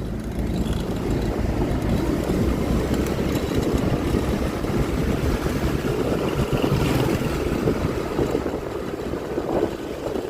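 Riding noise from a Honda Click 125i scooter on the move: a steady rush of wind and road noise dominates, with the engine and passing traffic underneath and no single distinct event.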